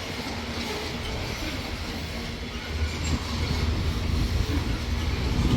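Loaded freight train rolling past, its wagons running over the rails, with a low rumble growing louder from about halfway through.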